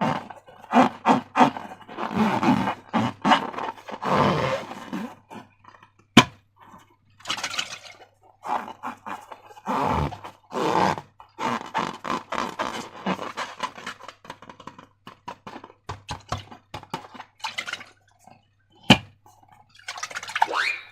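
Slime being squeezed and worked by hand: irregular sticky, wet squelches and crackles, with two sharp clicks along the way.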